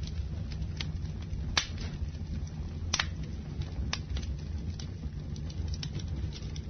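Campfire burning: wood crackling with sharp pops at irregular moments, the loudest about one and a half seconds in, over a steady low rumble of the flames.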